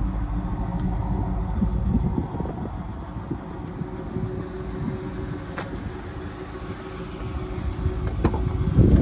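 Wind buffeting the microphone in gusts, strongest in the first two seconds and again near the end, over a faint steady hum.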